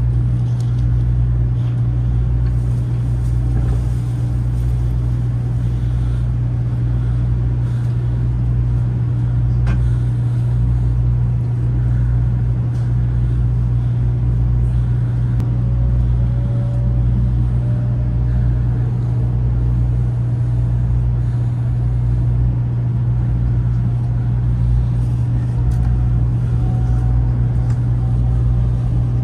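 Steady low rumble of a JR West 500 series Shinkansen train running, with a faint whine rising slowly in pitch twice in the second half.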